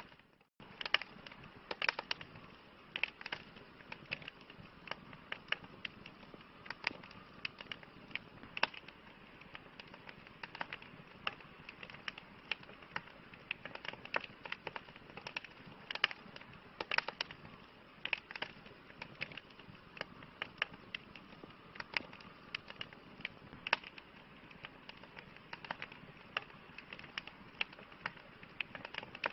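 Campfire crackling: a wood fire giving irregular sharp pops and snaps, several a second, over a soft steady hiss. The sound drops out to silence for a moment about half a second in.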